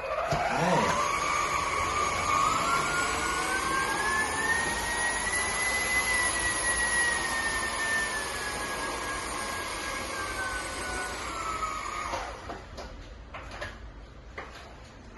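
Conga Rockstar cordless vacuum cleaner switched on, its motor whining up to speed and running with its pitch drifting slowly up and then back down. It is switched off about twelve seconds in and winds down, followed by a few faint clicks.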